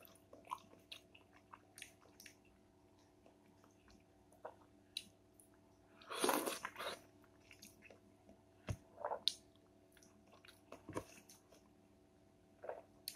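A person eating soft ripe papaya from a metal spoon: quiet chewing and wet mouth sounds with scattered light spoon clicks, and a louder mouthful about six seconds in.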